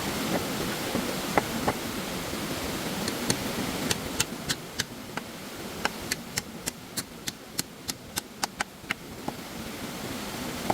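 Steady rush of flowing stream water. From about three seconds in comes a quick run of sharp knocks, reaching three or four a second at their fastest.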